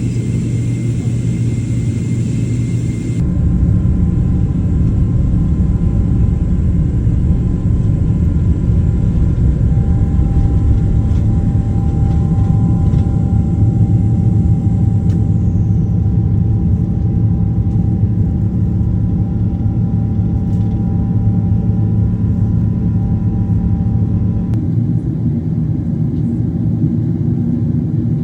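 Boeing 777 jet airliner on its takeoff run: a loud, steady low rumble of the engines and runway. A high steady whine cuts off abruptly about three seconds in, and the rumble stays loud after that.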